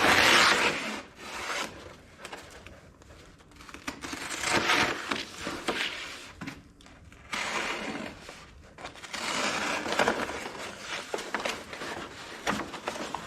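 Paper being pulled off a roll and cut, with several long rustling, scraping strokes and quieter handling between them.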